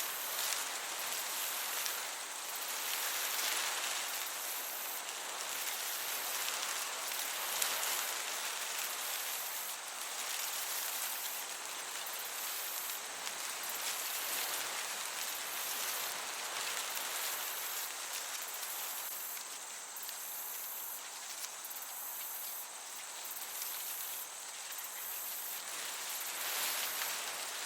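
Crickets chirping in a steady high chorus over a gentle breeze that swells and eases.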